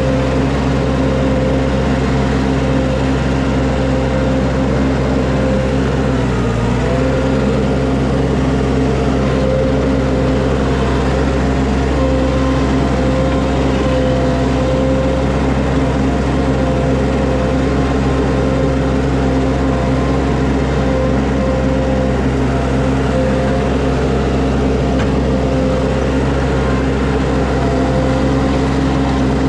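Skid steer loader engine running steadily under work, with a brief change in its note about six seconds in.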